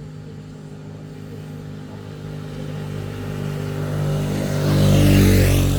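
A motor vehicle approaching along the road and passing close by: its engine hum grows steadily louder, is loudest about five seconds in, then starts to fade.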